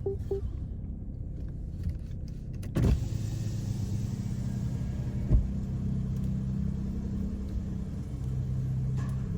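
BMW 540i's B58 turbocharged straight-six with an ARP aftermarket exhaust running at a steady, low drone. A sharp knock about three seconds in and a smaller one midway, and a few clicks of a turn signal at the very start.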